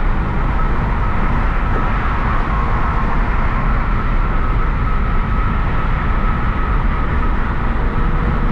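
Hyundai Genesis Coupe 3.8's V6 engine and tyres under way, a steady drone of engine and road noise.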